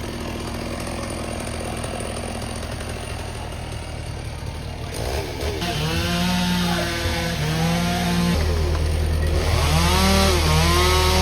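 Chainsaw cutting, its engine pitch rising and falling again and again as the throttle is worked, becoming clearer about halfway through.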